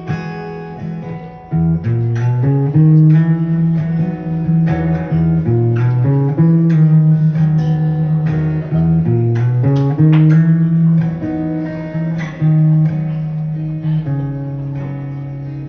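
Guitar playing an instrumental passage of a song, plucked and strummed notes over a moving bass line, with no voice.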